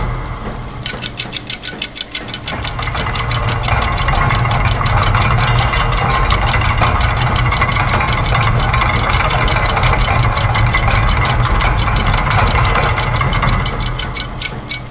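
Layered loops of factory machine sounds: a steady low mechanical hum under a rapid, even run of clicks, like gears, a ratchet or a sewing machine running. The clicking starts about a second in and the whole mix thins out near the end.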